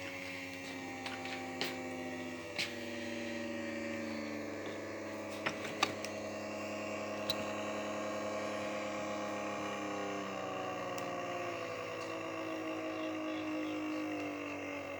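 O gauge model locomotive's small electric motor whining steadily as it runs along the track, the pitch drifting slowly with speed. A few sharp clicks in the first half, like wheels crossing rail joints.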